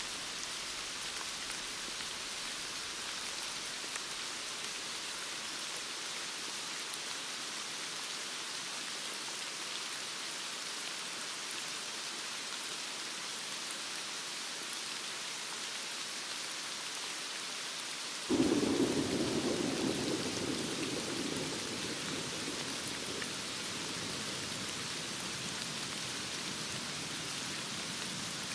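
Steady heavy rain, with a sudden crack of thunder about two-thirds of the way through that rumbles low and fades over a few seconds.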